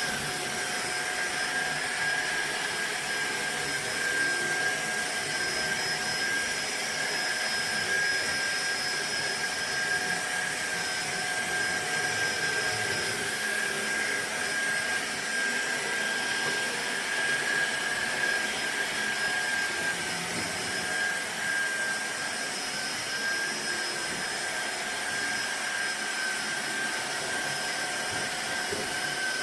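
Cordless stick vacuum cleaner running steadily, its motor giving a constant high-pitched whine over a rushing airflow noise.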